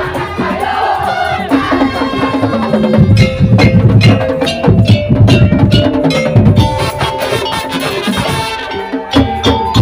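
Musik daul ensemble playing live: held melodic notes over light percussion, then drums and wood-block-like percussion come in strongly about three seconds in with a fast, driving beat.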